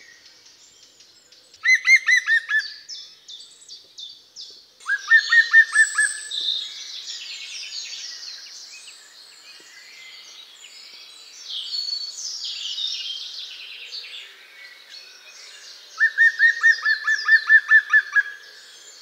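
Songbirds chirping and singing, several at once, with a louder phrase of quick repeated notes that comes three times: about two seconds in, about five seconds in, and near the end.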